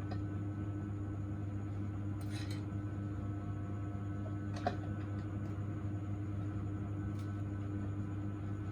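Steady low mechanical hum, with a short hiss a couple of seconds in and a small click about halfway through.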